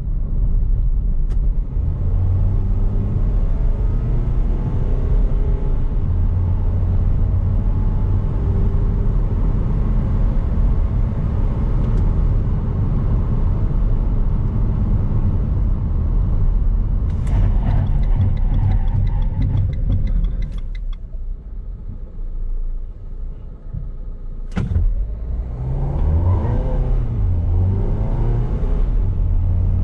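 Renault Trafic's 2.0-litre turbo-diesel four-cylinder engine running under load as the van drives and accelerates, its pitch shifting. About two-thirds in it quietens for a few seconds, a sharp click follows, then the engine pulls again with a rising pitch.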